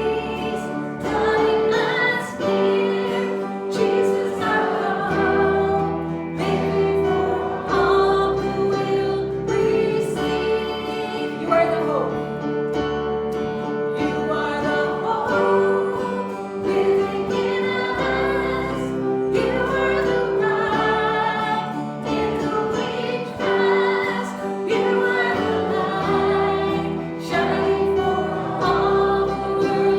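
Church worship song: a group of voices singing with instrumental accompaniment and a steady sustained bass.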